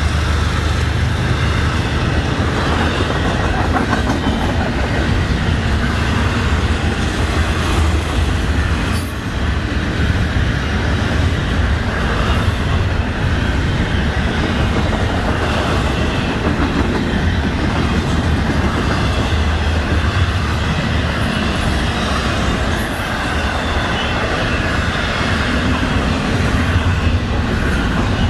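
A Florida East Coast Railway train's cars rolling past with a steady heavy rumble and wheels clacking over the rail joints, with a couple of sharp metallic clicks.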